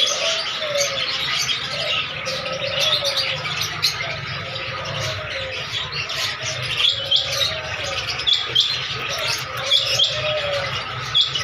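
Many small caged birds chirping and tweeting at once in a dense, continuous chorus. From about halfway through, sharp chirps in quick pairs stand out over it, and a steady low hum runs underneath.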